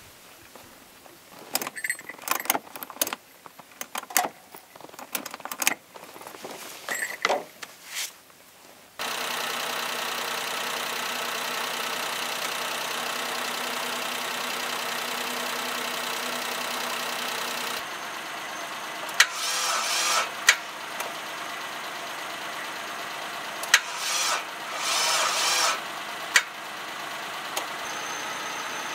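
Clicks and a jangle of keys at first, then about nine seconds in a car engine starts idling steadily: the Suzuki 4x4 running to jump-start a diesel tractor through booster cables. In the second half come two short bursts of what sounds like cranking, and the tractor does not start.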